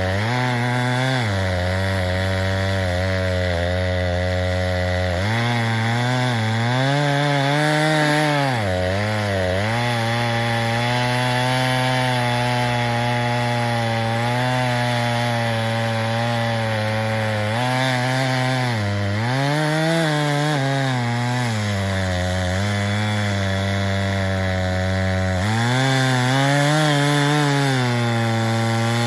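Two-stroke chainsaw cutting through a big tree trunk, about 24 inches thick, held at high revs; its pitch dips and recovers several times as the chain bogs in the cut under load.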